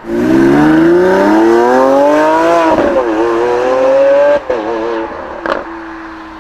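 Lamborghini Aventador V12 on its stock exhaust, accelerating hard. The engine note rises for about two and a half seconds, dips briefly at a gear change and climbs again, then cuts off sharply about four seconds in, with a single short crack about a second later as the sound fades.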